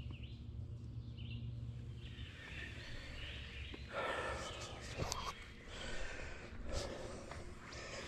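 A hiker's footsteps crunching on the trail and heavy breathing while climbing a steep hill, with a few sharp knocks from a pack strap swinging against the camera.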